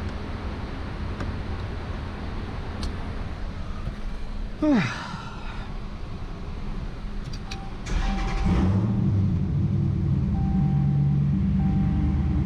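Dodge Challenger's engine cranking and starting about two-thirds of the way through, then settling into a steady idle, with a repeating warning chime. A short falling sound comes a little before the start.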